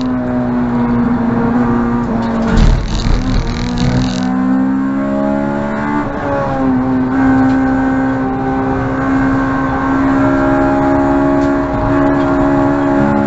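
Honda Civic EG6's B16A 1.6-litre four-cylinder engine running hard at racing pace on a circuit. About two and a half seconds in, the engine note drops sharply under a short burst of rumbling noise, the loudest moment. It then climbs back up, steps once near six seconds as a gear changes, and holds high, slowly rising revs.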